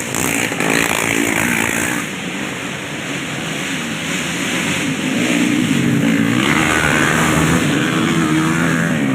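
Racing motorcycle engines running hard at high revs, the pitch climbing about halfway through and then holding.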